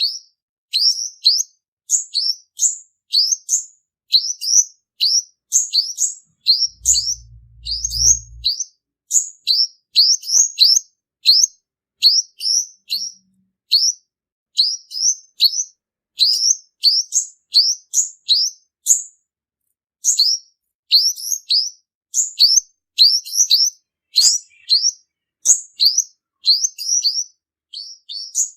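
Male olive-backed sunbird singing a fast, steady run of short, high, down-slurred chirps, about two a second, with one brief pause in the middle.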